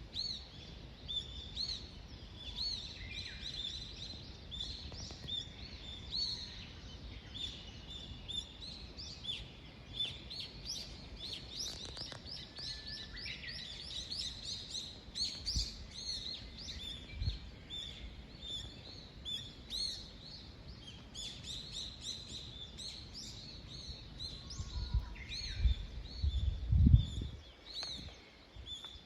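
A dawn chorus of small songbirds: many short, high chirps and repeated notes overlapping throughout. A low rumble swells near the end and is briefly the loudest sound.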